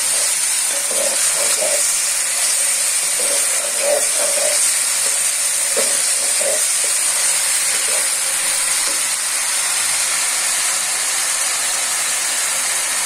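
Wet spice paste sizzling and hissing steadily in hot oil in a pan just after a splash of water was added, while a wooden spatula stirs and scrapes through it a few times. The water is there to keep the ground spices from burning as the masala is sautéed.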